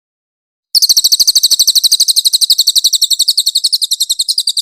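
A cililin bird singing one fast, high-pitched trill of about fifteen evenly repeated notes a second, starting just under a second in.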